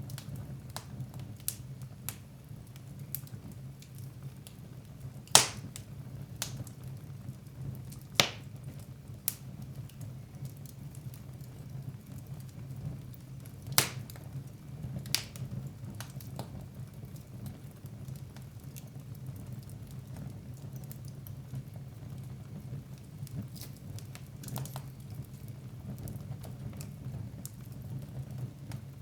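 Fire burning in a fireplace, crackling with a steady low rumble and scattered sharp pops; the three loudest pops come about five, eight and fourteen seconds in.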